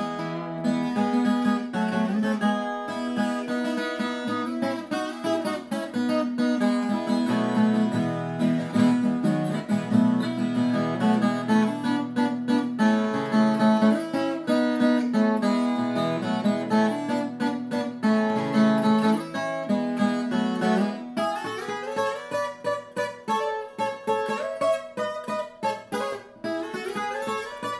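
Acoustic guitar music, strummed and plucked, with the notes coming choppier and more separated near the end.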